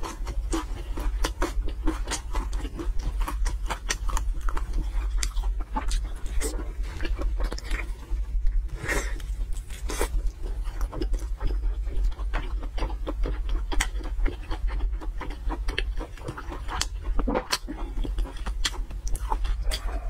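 Close-up chewing of soft braised fatty pork belly, with many quick mouth clicks and smacks, over a steady low hum.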